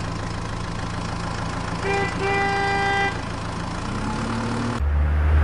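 Vehicle engine idling steadily, with a horn honking about two seconds in: a short toot, then a longer held one. The engine grows louder near the end.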